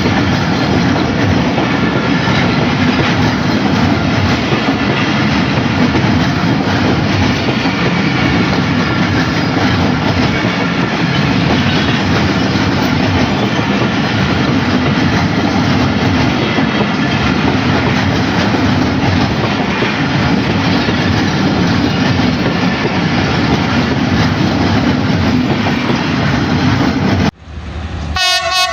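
Passenger train running past at close range, a loud steady rumble of wheels on the track. Near the end it cuts off abruptly, and a locomotive horn starts blowing.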